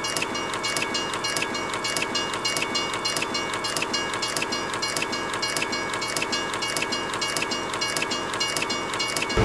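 Train rolling along the rails, its wheels clicking in a fast, even rhythm over a steady high tone.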